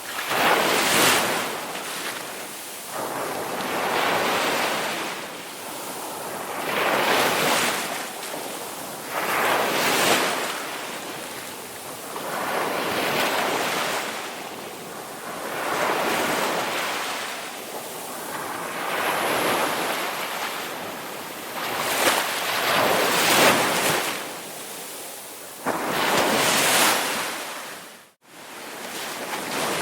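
Ocean waves breaking and washing on a shore, a swell of surf every two to three seconds, with a brief sudden dropout in the sound near the end.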